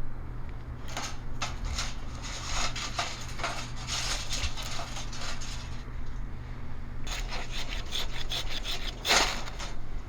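Irregular scraping and rubbing strokes, with one longer, louder stroke near the end, over a steady low hum.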